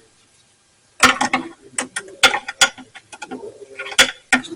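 Metal hand tools clicking and clinking in a car's engine bay: a run of irregular sharp clicks, some ringing briefly, starting about a second in.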